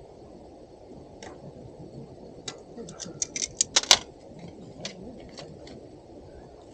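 Camp cookware and utensils clinking and tapping: a quick run of sharp metallic clicks about halfway through, the loudest near the fourth second, over a steady low rush.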